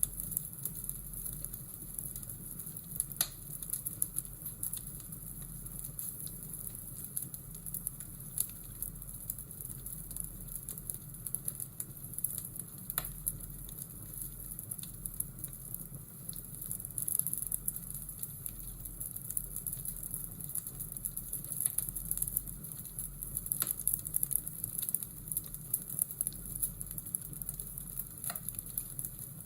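Fireplace ambience: a wood fire crackling, a steady hiss with scattered sharp pops.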